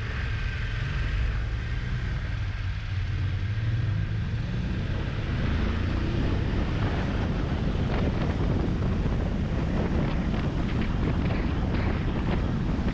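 Motorcycle engine running under way with wind buffeting the microphone; the wind noise grows heavier from about five seconds in.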